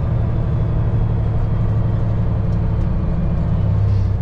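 Peterbilt semi truck's diesel engine running steadily as the truck drives off, a low drone.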